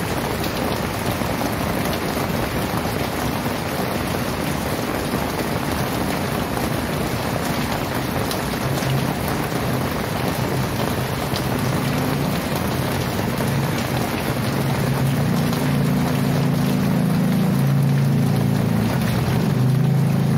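Very heavy rain pouring steadily. About halfway through, a low, steady, engine-like hum comes in under it and grows louder toward the end.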